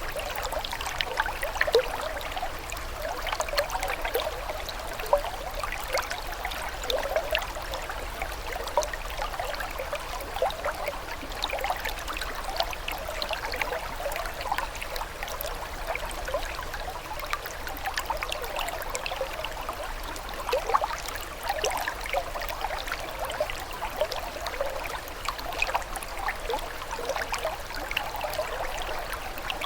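Running water trickling steadily, with a continuous patter of small bubbling splashes and no change in flow.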